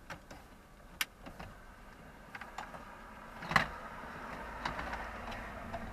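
Plastic wiring connectors being plugged back onto a car's HVAC control unit: scattered small clicks and handling noise. One sharp click about three and a half seconds in.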